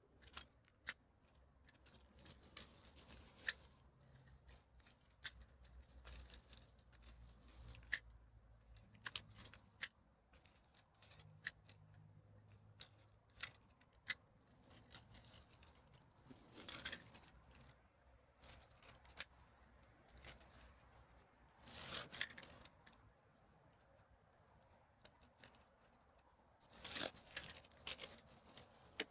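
Rustling and crackling of litter and dry forest debris: many short sharp crackles, with three longer crinkling bursts about 17, 22 and 27 seconds in.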